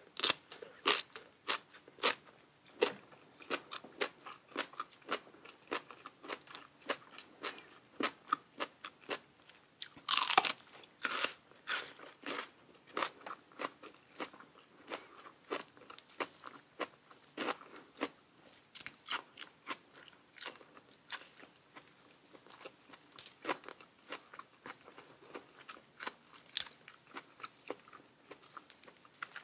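Close-up crunching and chewing of food: a dense, irregular run of crisp crunches several times a second, loudest around ten seconds in.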